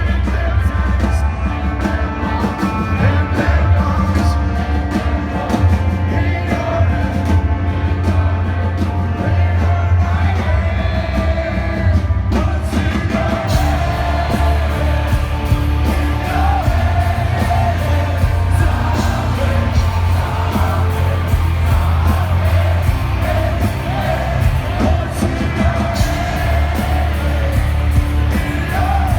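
Heavy metal band playing live: a sung lead vocal over loud distorted guitars, bass and drums.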